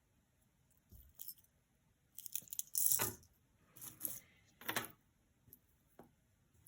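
Costume jewelry clinking and jangling as pieces are handled and moved, in several short bursts, loudest about three seconds in.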